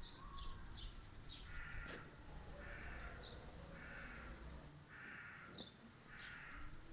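Outdoor birdsong: one bird gives five harsh calls about a second apart, with short, high, falling chirps in between.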